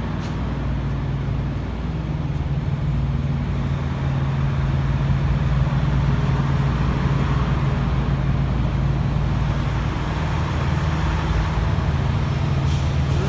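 A vehicle engine running at a steady speed: an even, low drone with noise above it, growing slightly louder about a few seconds in.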